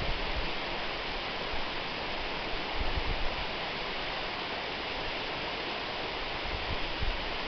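Waterfall: a steady rush of falling water, with a deep low rumble that swells now and then.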